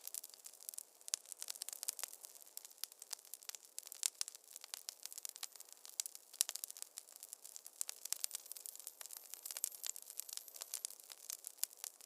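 Wood fire crackling in a fireplace: a dense, irregular run of sharp pops and snaps over a faint hiss.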